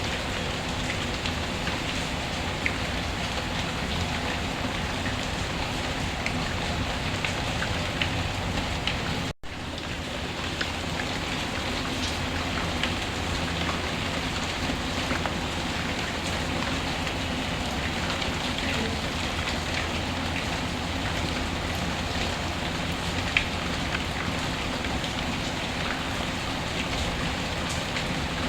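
Steady rain ambience mixed with scattered sharp crackles from a fireplace. The sound cuts out for a split second about nine seconds in, a splice in the loop.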